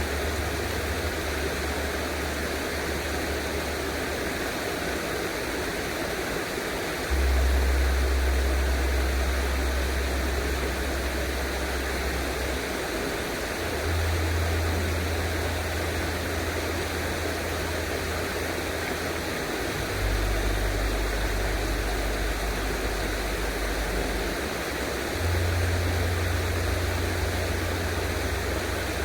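Steady rushing of flowing water, with a deep low rumble underneath that steps up or down abruptly every several seconds.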